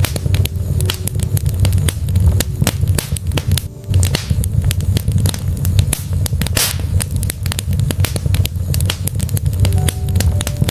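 Wood fire crackling in a fireplace: a dense run of sharp pops and snaps from the burning logs over a steady low rumble of the flames. A louder pop comes about two-thirds of the way through.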